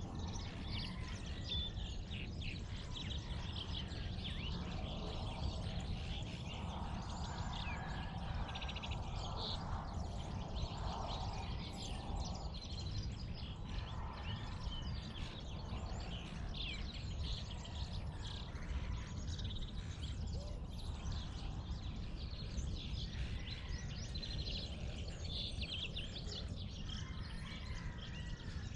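Dawn chorus of many birds chirping and calling throughout, over a steady low rumble of background noise.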